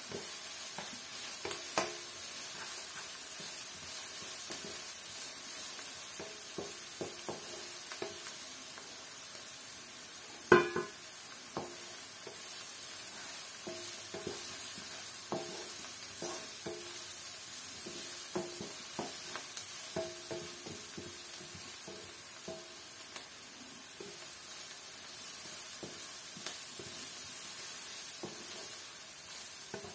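Diced onion sizzling in oil in a nonstick wok, softening toward translucent, while a wooden spatula scrapes and pushes it around the pan in short strokes. A single sharp knock of the spatula against the pan comes about ten and a half seconds in and is the loudest sound.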